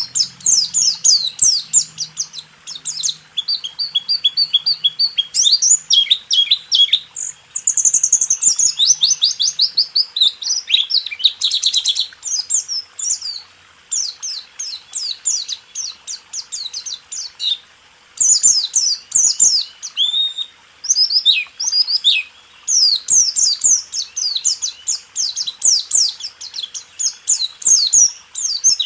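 White-eye (pleci) singing a fast, high-pitched rolling song: long rapid runs of chirping notes with brief pauses between them.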